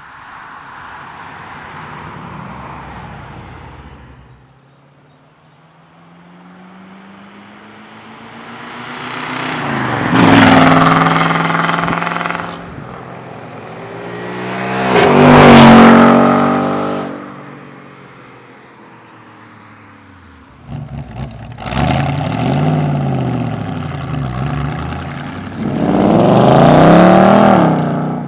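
Ford Mustang GT's 5.0-litre V8 accelerating hard past twice, its pitch climbing and then dropping as it goes by. Then the engine cuts in suddenly about two-thirds of the way through and is revved several times, the last rev the loudest.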